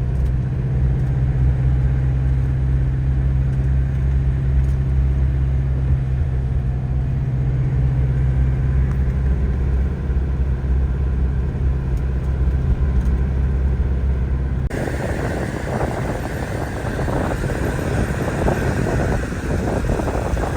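Motorhome engine and road noise while climbing mountain switchbacks: a steady low drone. About 15 seconds in it changes abruptly to a rougher, noisier rumble.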